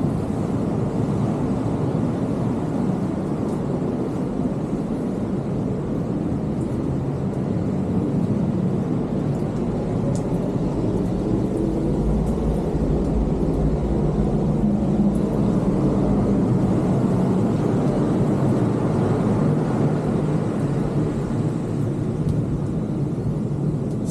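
Ocean surf surging into a sea cave: a steady low rumble of rough water, swelling louder around halfway through as a wave rushes in.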